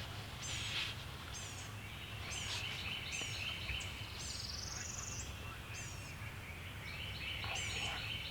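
Songbirds singing: many short, high notes sweeping downward, repeated again and again, with a brief rising trill near the middle, over steady low background noise.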